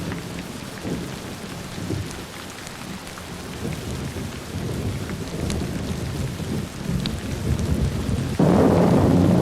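Thunderstorm: rain falling steadily under low, swelling thunder rumbles, with scattered small crackles. About eight seconds in, a much louder thunder peal breaks in suddenly.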